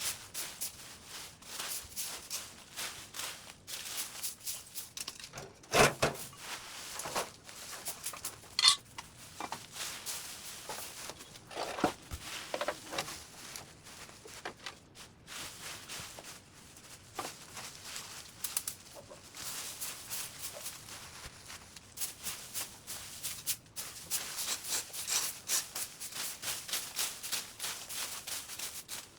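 Chickens clucking a few times over a steady patter of rustling and scraping.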